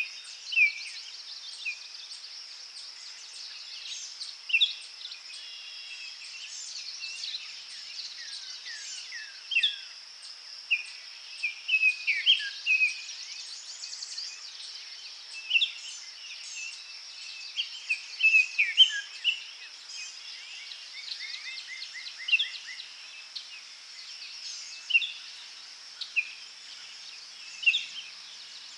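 Many birds chirping and singing over a steady high insect-like hiss, a forest dawn chorus of short whistled notes, trills and downward-sweeping calls.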